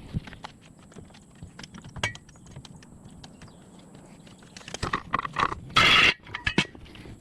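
A run of irregular clicks and knocks, closer together near the end, with one short, loud burst of hiss about six seconds in.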